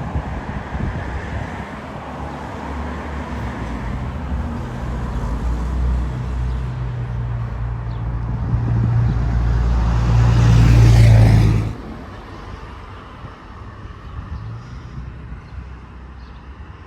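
Diesel locomotive of a slug set running past: a steady low engine drone grows louder for several seconds, with wheel and rail noise at its loudest as it comes closest. About 12 seconds in the sound drops off suddenly to a low rumble.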